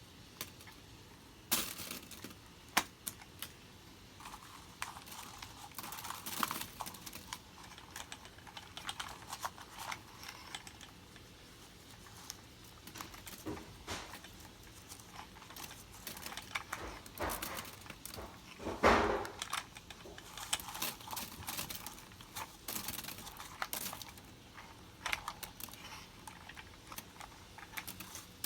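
Irregular light clicks, taps and rattles of small hard objects being handled, with one louder clatter about two-thirds of the way through.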